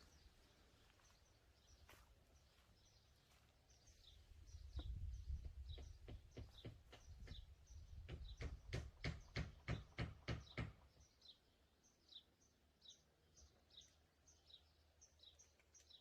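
A small bird chirping over and over, short high chirps about twice a second. From about four seconds in there is a low rumble and a quickening run of soft knocks, loudest near the middle, which stops at about eleven seconds.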